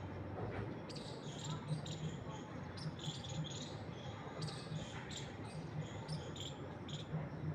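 Small birds chirping in quick, irregular calls, several overlapping, over a steady low rumble of wind.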